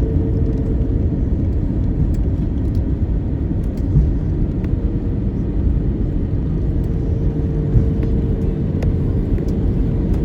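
Steady low rumble inside an Airbus A321 cabin, with a faint steady hum and two light bumps, about four and eight seconds in.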